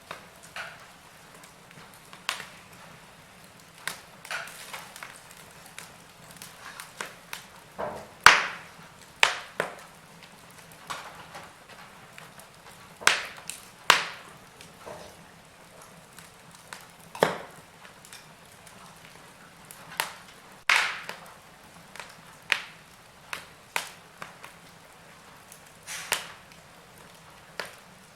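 Wood fire crackling in a fireplace: irregular sharp pops and snaps over a faint steady hiss, a few louder pops standing out among the smaller ones.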